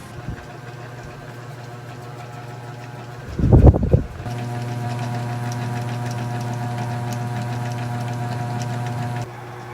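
A small motor humming steadily. There is a loud thump about three and a half seconds in, after which the hum runs louder for about five seconds and then drops back near the end.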